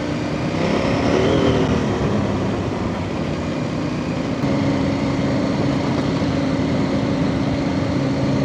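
Off-road trail motorcycle engine running at a steady pace, with a brief rise in revs about a second in, then holding an even note.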